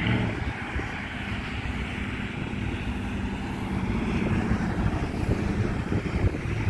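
Freight train of autorack cars rolling past with a steady rumble, mixed with road traffic: a car, a pickup and an SUV driving by close in front, a little louder in the second half.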